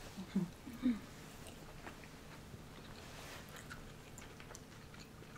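Close-miked chewing of sushi, with faint wet mouth clicks. Two short low hums, like 'mm', in the first second.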